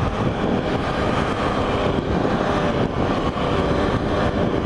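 Steady engine and road noise of a vehicle under way, with a faint engine hum beneath a constant rush of noise.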